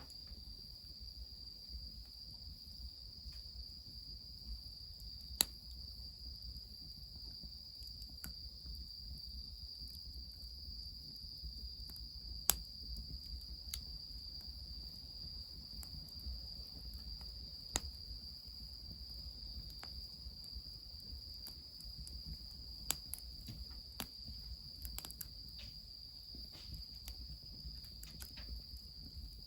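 Wood fire crackling, with sharp pops every few seconds, over a steady high insect trill and a faint low rumble.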